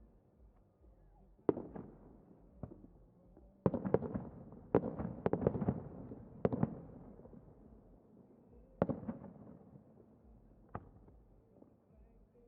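Fireworks shells bursting overhead: a single bang, then a quick run of several bangs, then two more spaced apart, each trailing off in a rumble.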